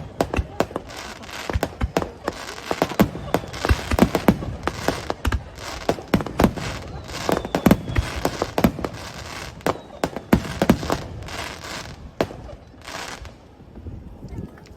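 Fireworks bursting in a rapid barrage of sharp bangs and crackles, the reports coming several a second and thinning out near the end.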